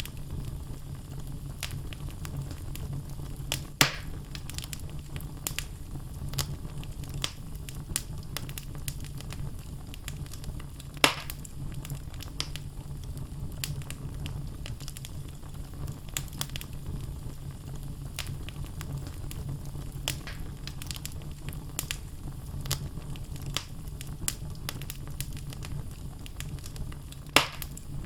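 Wood logs burning in a fireplace: a steady low rumble of flame with frequent small crackles and three louder pops.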